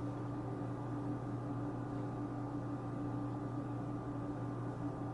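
A steady hum with a few fixed tones over a soft hiss, unchanging: a motor or appliance running.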